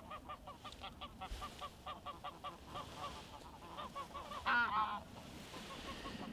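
A flock of geese honking, many short calls overlapping in a steady chorus, with a louder, closer burst of honking about two-thirds of the way through.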